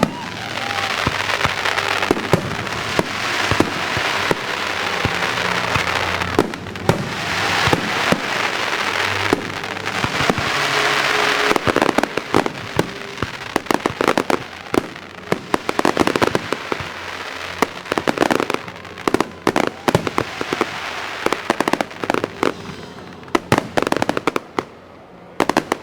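Fireworks display: aerial shells bursting with a dense crackling hiss through the first half. Sharp bangs come thick and fast from about halfway on, ease off briefly near the end, then a few more follow.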